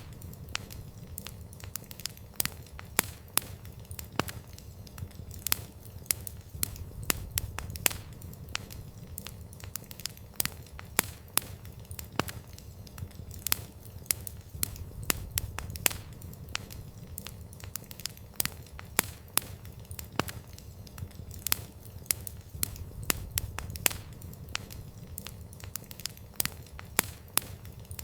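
Campfire burning: wood crackling, with irregular sharp pops and snaps over a steady low rumble.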